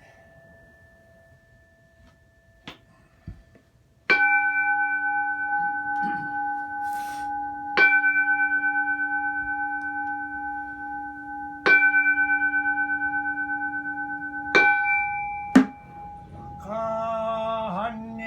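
Buddhist bowl bell struck four times, a few seconds apart, each stroke ringing on with a steady, slowly fading tone. A short sharp knock follows the last stroke, and a man's chanting begins near the end.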